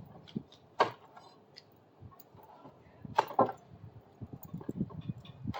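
Pry bar levering screwed-down deck boards apart: two sharp cracks, about a second in and again around three seconds in, then a run of lower, uneven creaking and knocking as the wood and screws give.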